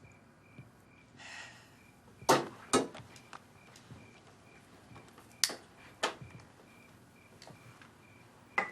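Several sharp knocks and thuds, as of household objects or doors being handled: two close together about two seconds in, two more around five to six seconds in, and a fainter one near the end.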